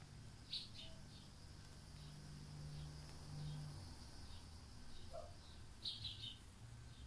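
Faint, short high-pitched bird chirps: a single chirp about half a second in and a quick cluster of chirps around six seconds in, over a low steady hum.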